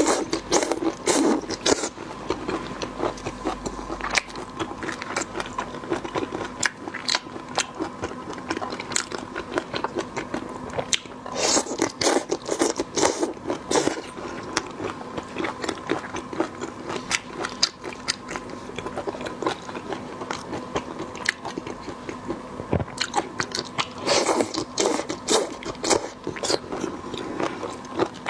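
Close-miked eating: a person biting and chewing food, with dense crunching and wet mouth clicks that come in louder clusters near the start, about halfway through and near the end.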